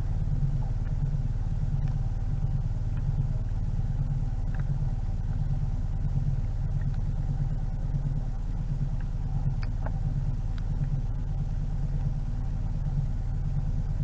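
Narrowboat's diesel engine running steadily at low revs, a low pulsing throb.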